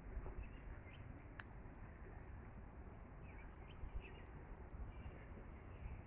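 A few faint, short bird chirps over a low, steady wind rumble, with a single sharp click about a second and a half in.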